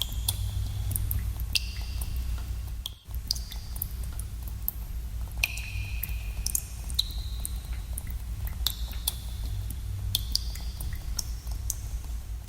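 Water drops falling into a pool in a cave, each a sharp plink with a short ringing tone that echoes. The drops come irregularly, several a second, over a steady low rumble.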